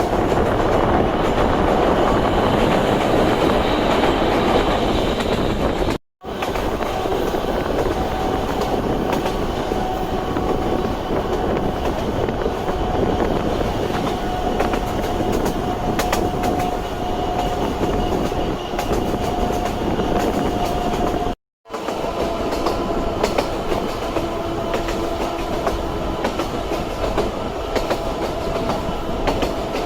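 A Sangi Railway Hokusei Line 762 mm narrow-gauge electric train running, with wheels clicking over the rail joints and a steady whine from its nose-suspended traction motors. The sound cuts out abruptly twice.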